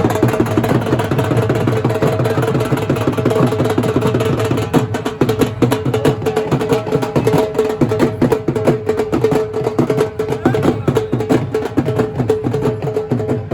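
Festival drumming: drums beaten fast and without a break, with a steady held tone running under the beats.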